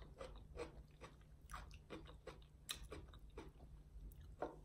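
Faint close-up chewing of a mouthful of smothered potatoes, heard as a run of small, irregular mouth clicks, a few a second.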